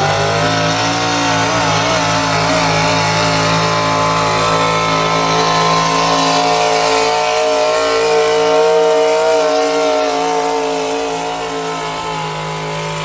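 Pulling vehicle's engine running hard at high revs during a pull, climbing in pitch at the start and then held high and nearly steady, with slight wavers.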